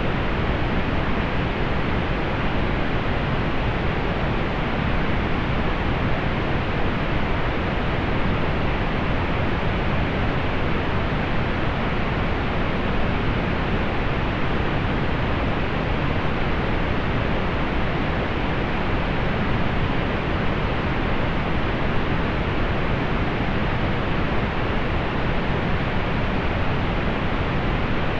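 Steady pink noise, softened above about 4 kHz, unchanging throughout.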